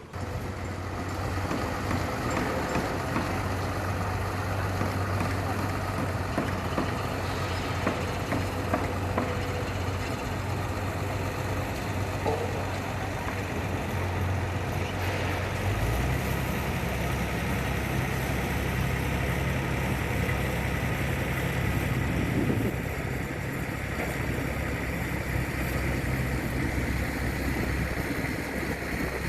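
Diesel engine of a Hyundai four-axle dump truck running steadily, its low note stepping up to a higher engine speed about halfway through.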